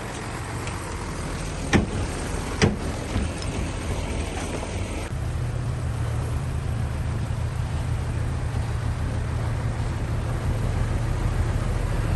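Bulldozer's diesel engine running under load, with two sharp clanks a little under a second apart about two seconds in. About five seconds in the engine drone deepens and slowly grows louder.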